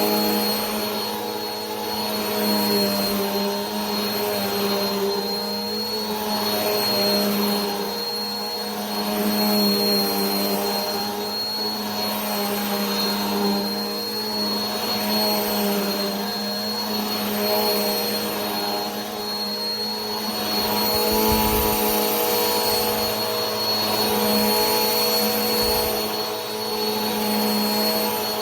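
Vacuum cleaner running steadily: a motor hum under a rush of airflow, with a thin high whine on top and a level that gently swells and eases every couple of seconds.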